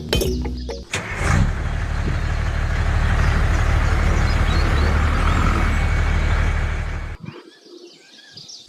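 A vehicle engine running with a steady low rumble for about six seconds, then cutting off suddenly. Music is heard for the first second.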